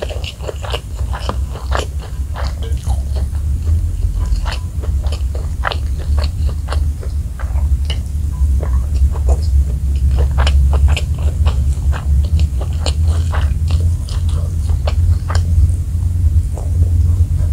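Close-up chewing and crunching of mouthfuls of fried rice and crispy smashed fried chicken eaten by hand, with many small irregular crackles and wet mouth clicks over a steady low hum.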